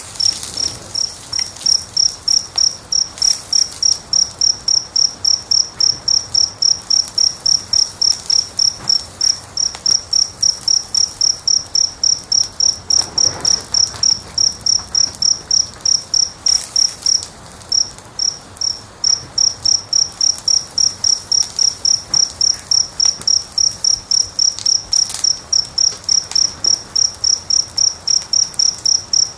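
A cricket chirping steadily, a high-pitched pulse about three times a second, with one short pause a little past halfway. A few faint crackles of the wood fire sound now and then.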